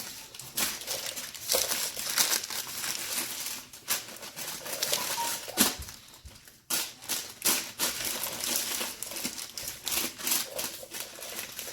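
Crinkling and rustling as the mouth of a tanjia clay pot is covered and tied with string, in irregular crackles with a short lull just past halfway.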